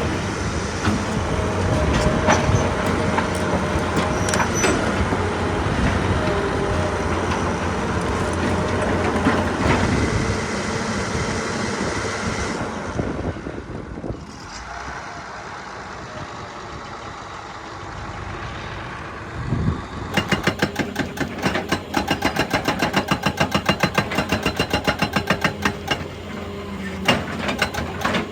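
Excavator at work on rock: the diesel engine running with knocks and scraping, easing off to a quieter stretch about halfway through, then a rapid, even hammering of several blows a second from about two-thirds in, typical of a hydraulic rock breaker.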